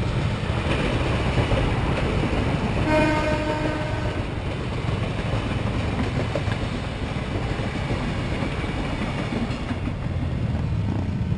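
KRL electric commuter train passing close by, its wheels and cars rumbling steadily along the track, with one horn blast about a second long about three seconds in.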